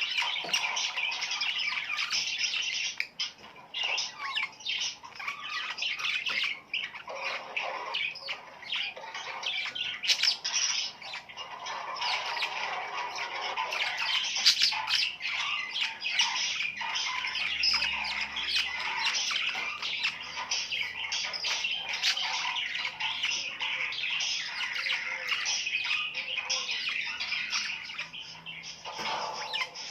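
Budgerigars chattering and warbling in a dense, continuous stream of short calls: the breeding chatter that is played to budgies to get them to mate.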